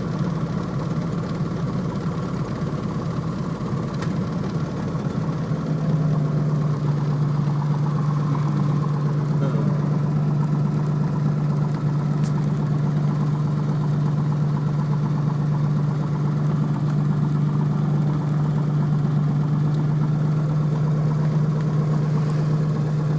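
Piper Comanche's single piston engine and propeller running at low taxi power, a steady drone that gets a little louder about six seconds in.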